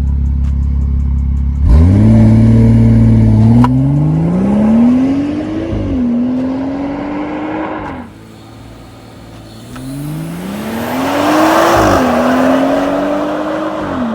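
The turbocharged B58 inline-six of a BMW 440i, breathing through a Dinan free-flow exhaust, runs with a sudden flare a couple of seconds in. It is then revved twice, each rev rising and falling back to a steady idle, and the second rev comes with a louder rush of exhaust noise.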